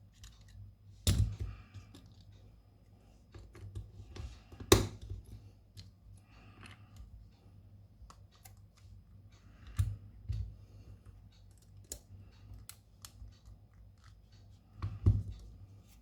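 Irregular small clicks and taps of hand tools and parts being handled on a hard work surface, with a few louder knocks spread through, over a low steady hum.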